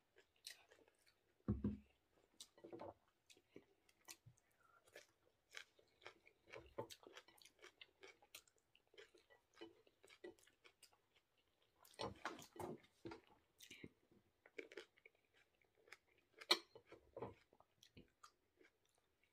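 Faint, close chewing and wet mouth sounds of a person eating rice and water spinach with her fingers, made of many small scattered clicks, with a few louder knocks and smacks, the loudest about a second and a half in, around twelve seconds in and around sixteen seconds in.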